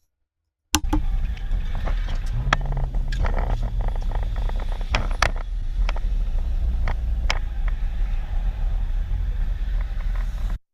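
Car driving, recorded by a dashcam: a steady low rumble of engine and road noise that starts and stops abruptly, with several sharp knocks scattered through it and a low hum from about two seconds in.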